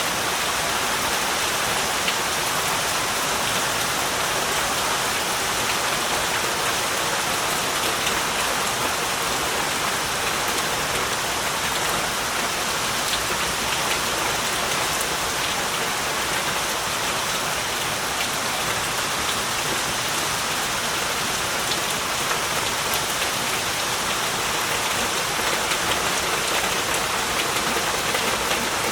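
Heavy rain falling steadily, a dense even hiss with the patter of countless drops striking surfaces.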